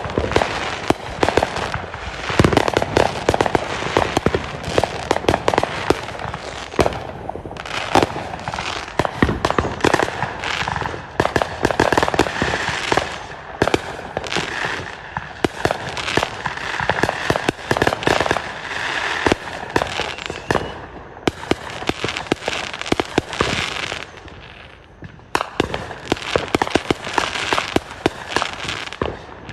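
Fireworks going off in a rapid, dense run of crackling bangs and pops, with a brief lull about three-quarters of the way through before the bangs resume.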